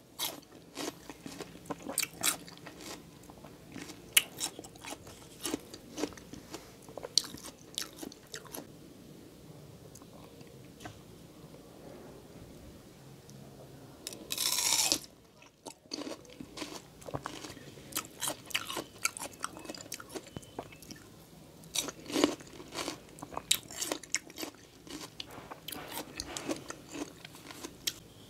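Close-miked bites and crunchy chewing of raw kamias (bilimbi) fruit: rapid crisp crunches, dying down for a few seconds, then one loud crisp bite about halfway through, followed by more chewing crunches.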